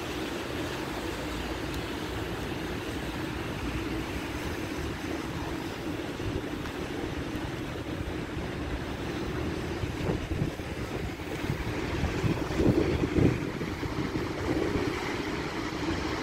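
Steady wash of rain and wet-street noise, with wind rumbling on the microphone in stronger gusts about ten and thirteen seconds in.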